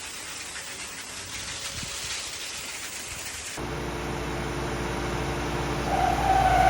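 A steady hiss, then an abrupt switch a little past halfway to the steady low hum of a vehicle's engine heard from inside the cab.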